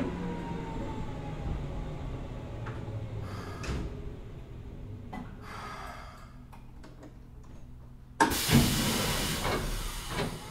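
Keikyu 800 series electric train with Mitsubishi field-chopper control braking to a stop: the motor tones fall away early on, air brake hisses and clicks follow as it halts, then about eight seconds in the sliding doors open with a sudden loud rush of air.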